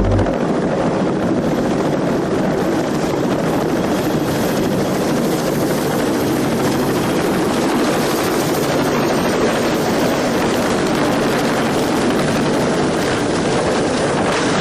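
Helicopter running, a steady, continuous rotor and engine noise.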